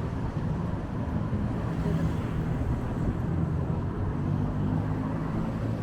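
Wind rumbling on the microphone over city street noise: a steady low rumble with no single event standing out.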